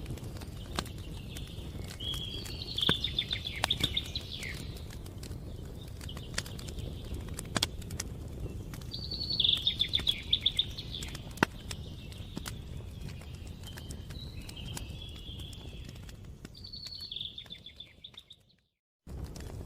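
A songbird sings short, fast trilled phrases every few seconds over a steady low rumble, with scattered sharp pops and crackles from a burning wood fire. The sound cuts out briefly near the end.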